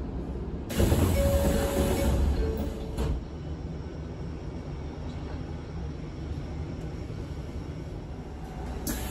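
Cabin noise inside an Izuhakone Railway 7000 series electric train car: a low rumble that turns louder about a second in and carries two held tones, the second lower. About three seconds in it drops back to a quieter steady hum.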